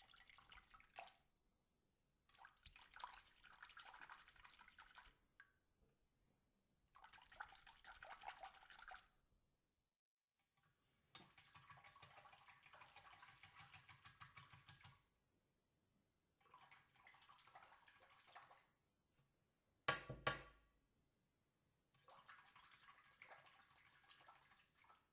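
Water sounds in short separate takes, each a few seconds of splashing and dripping with silence between them, one sharper, louder splash about twenty seconds in.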